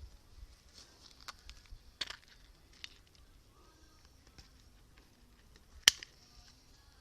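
Sharp clicks of pruning shears snipping: a few light snips, one louder snip about six seconds in, and small rustles between them.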